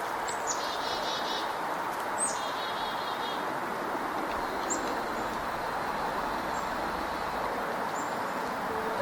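Black-capped chickadee calling twice, each call a few short high notes followed by a run of buzzy notes, then single high chips every couple of seconds over a steady outdoor rush.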